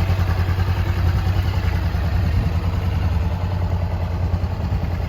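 Honda CB500F's 471 cc parallel-twin engine idling steadily, with an even, rapid exhaust pulse.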